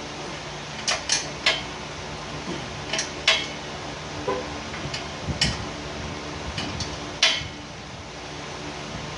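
Sharp metallic clinks and knocks, about ten at irregular intervals, over a steady hum, like tools and metal parts being handled during exhaust work.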